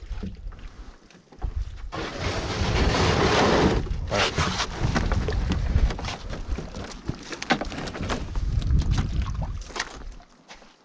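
Canoe being paddled: paddle strokes splashing and swishing in the water, with a loud rushing stretch about two seconds in, and wind rumbling on the microphone.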